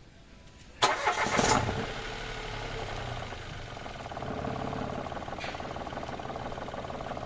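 Mitsubishi Mirage's three-cylinder engine starting about a second in, with a short loud burst as it fires, then settling into a steady idle.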